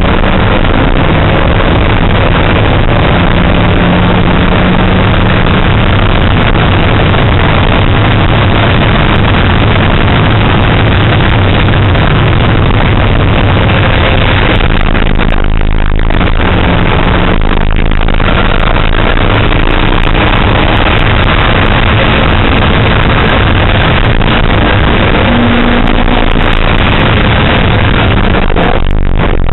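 A car's engine heard loud from inside the cabin while lapping a race circuit at speed, the note climbing under acceleration, with brief drops around 15 and 17 seconds in and again near the end where the driver changes gear or lifts off.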